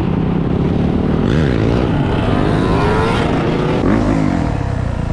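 Motorcycle engines revving, their pitch rising and falling several times over a steady low rumble.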